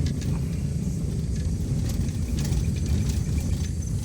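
Low, steady rumble of a vehicle driving along a rough road, with faint scattered ticks and rattles.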